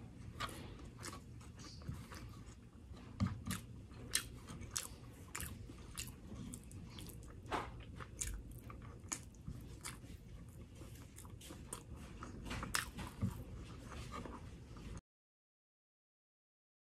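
Close-up eating sounds of a person chewing fried rice and sisig eaten by hand, with many short, sharp wet mouth clicks and smacks. The sound cuts to dead silence about two seconds before the end.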